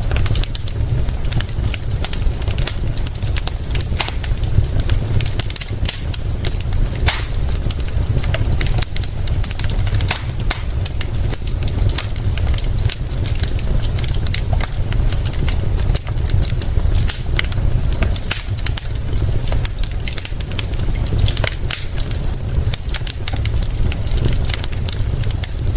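Fire crackling with many sharp, irregular pops, over a steady hiss of rain and a constant deep rumble.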